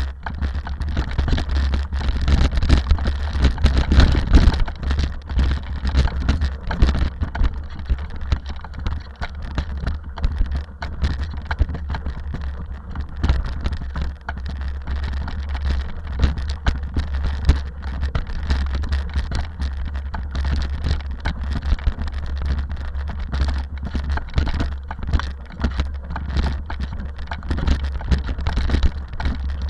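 Rally vehicle on the move: a steady low rumble with a dense crackling, rattling noise over it.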